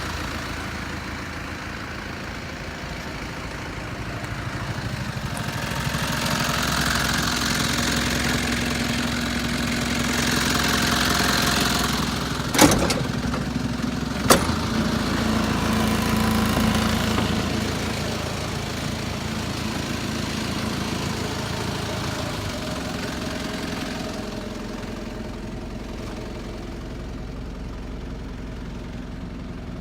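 Mitsubishi Canter truck's engine running, its speed rising and falling, louder through the middle stretch. Two sharp knocks come close together about halfway through. The engine then settles back to a steady idle.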